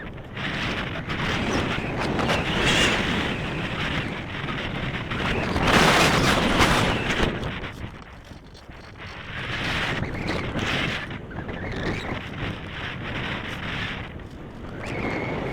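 Wind buffeting the microphone in gusts, loudest about six seconds in and easing off a couple of seconds later.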